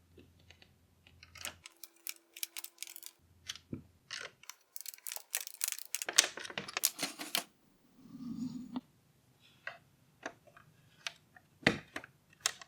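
Small hard plastic model-kit parts clicking and tapping as they are handled and fitted together, in scattered sharp clicks with a quick flurry a little before the middle and a brief rubbing sound about eight seconds in.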